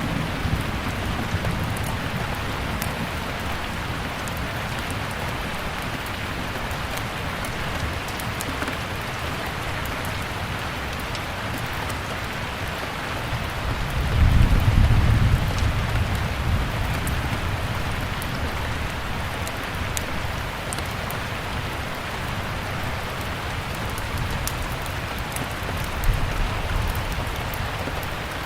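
Steady rain mixed with scattered faint crackles of a wood fire. A low rumble swells about halfway through, and a shorter one comes near the end.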